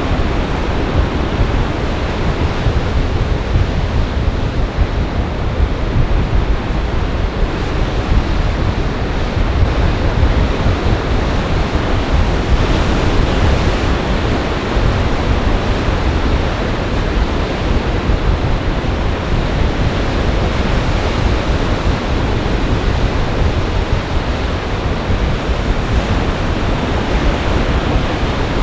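Storm waves breaking on Lake Michigan in gale-force wind: a steady, dense rush of surf and wind, with heavy wind buffeting on the microphone.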